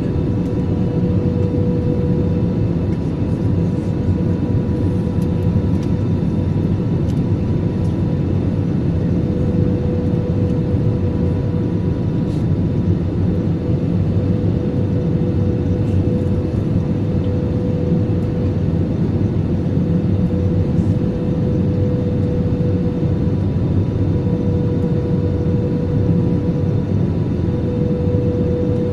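Airbus A320-200 cabin noise during the descent to land: a steady, even roar of engines and airflow with a constant hum tone running through it.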